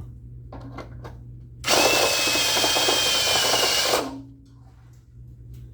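A power drill with a step bit runs for about two seconds, with a steady high whine, then stops.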